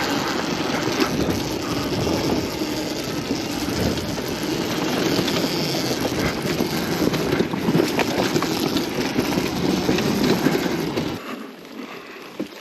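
KTM 250 XCW single-cylinder two-stroke dirt bike engine running as the bike is ridden along a trail, with rattling and clattering mixed in; the sound drops away sharply about eleven seconds in.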